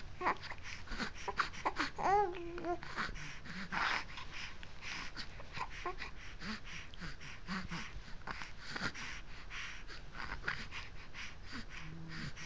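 A baby making small noises: breathy sounds and mouth clicks, with one short pitched coo about two seconds in.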